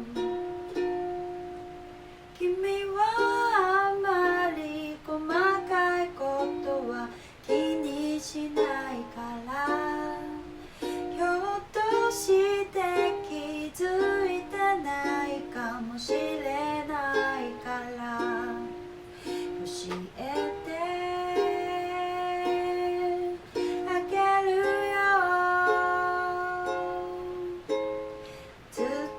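A voice singing a slow, gentle melody over a strummed and plucked ukulele.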